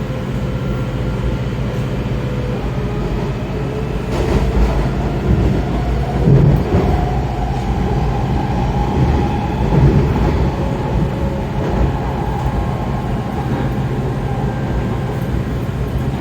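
Kawasaki 7000-series Metrorail train running on the track, heard from on board: a steady low rumble, with louder knocks around the middle and a faint motor whine coming in about halfway through.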